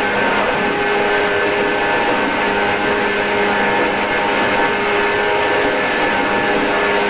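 JR East 113 series electric train running at a steady speed: a steady whine of several fixed tones over a continuous rushing rumble of wheels on rail.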